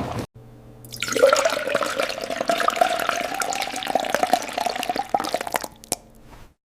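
Liquid pouring into a container, a splashy, crackly stream whose pitch rises slowly, starting about a second in and stopping shortly before the end.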